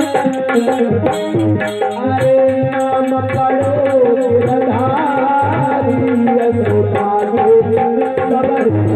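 Indian devotional music: tabla plays a steady rhythm under a held, gliding melody.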